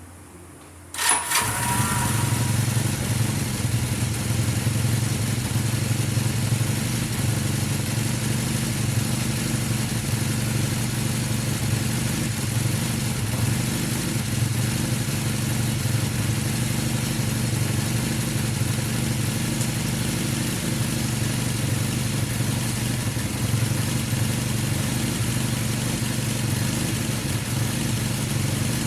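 Kawasaki Z440LTD's air-cooled parallel-twin engine cranks and catches about a second in, then settles into a steady idle.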